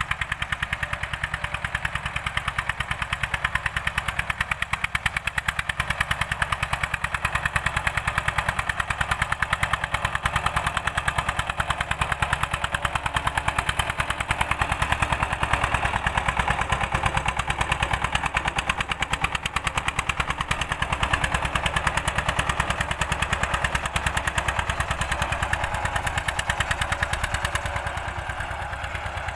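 Old Eicher tractor's diesel engine running steadily with a rapid, even exhaust chug while cultivating a field. It eases off slightly near the end.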